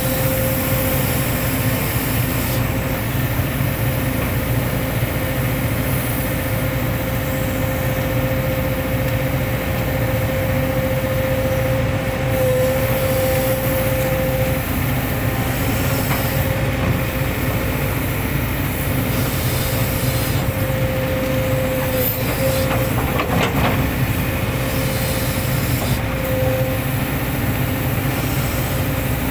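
Hitachi hydraulic excavator working, its diesel engine running in a steady drone with a steady whine over it.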